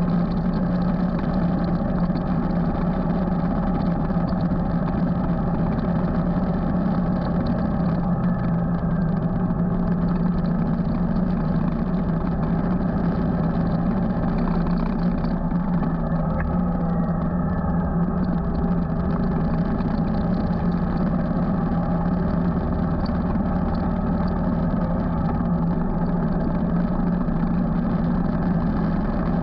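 Motorcycle engine running steadily under way at a constant speed, with a strong steady low hum and no change in pitch.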